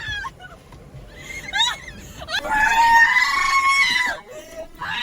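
High-pitched shrieking from a person: a short quavering squeal, then a long held shriek.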